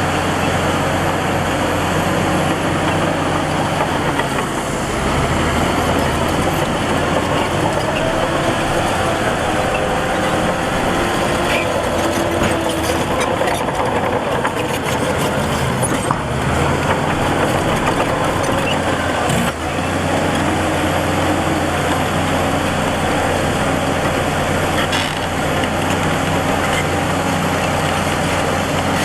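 Heavy diesel earthmoving machinery running steadily, with a few short knocks about halfway through.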